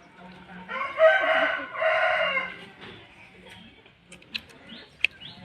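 A rooster crowing once, a loud call of about two seconds starting just under a second in, followed by a few faint clicks.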